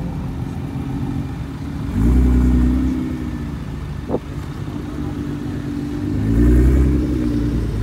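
Performance car engines running under light throttle, blipped twice: a short rev about two seconds in and a rising rev around six seconds in, the second from a Nissan GT-R's twin-turbo V6. There is a brief sharp click about four seconds in.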